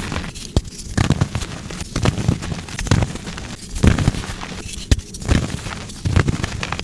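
Blocks of soft gym chalk being crushed and crumbled, a crunching crackle that comes in repeated bursts about once a second, with sharp snaps among them.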